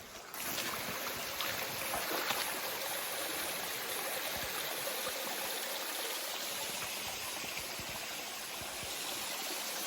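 Rainforest creek water running steadily over rocks, a constant rushing flow that starts suddenly just after the start and cuts off suddenly at the end.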